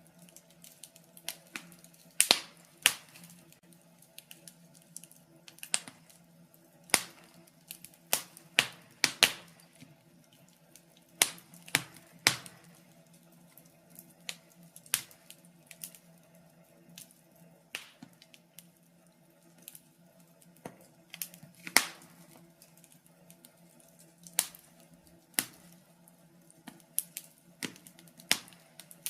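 Wood fire crackling, with irregular sharp pops, some close together and some spaced apart, over a faint steady low hum.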